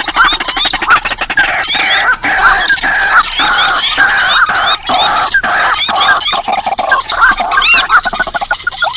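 A dense, overlapping chorus of rice-field and marsh bird calls, a mix of rails, crakes and waterhens, made as a lure: many short arching notes repeated several times a second alongside lower clucking calls.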